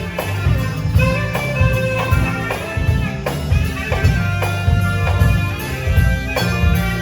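Live band music with a steady beat, drums and bass under sustained instrument notes.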